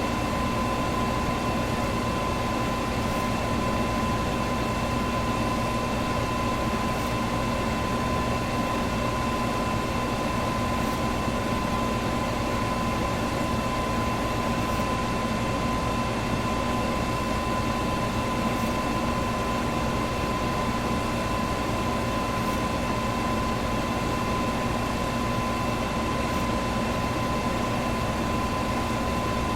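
Electric box fan running steadily: an even rushing of air with a constant hum at a fixed pitch.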